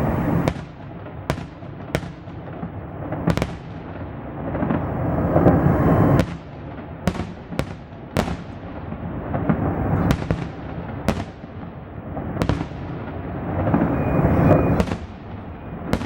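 Festive fireworks salute: about a dozen sharp bangs of shells bursting overhead at irregular intervals, each with a trailing echo, over a constant rumble that swells twice.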